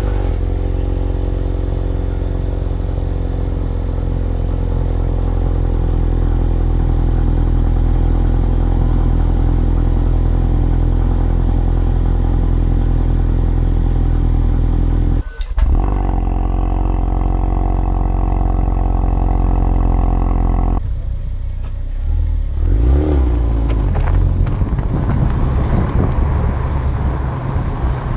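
Stock exhaust of a 2018 Ford Focus RS's 2.3-litre turbocharged four-cylinder idling steadily. There is a brief break about halfway through, and after about 21 seconds the sound turns rougher, with the engine note rising and falling in pitch.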